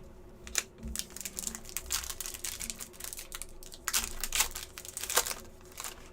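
Hockey trading cards being handled and flipped through by hand: a busy run of sharp clicks and rustles as card edges snap and slide against each other, loudest about four to five seconds in.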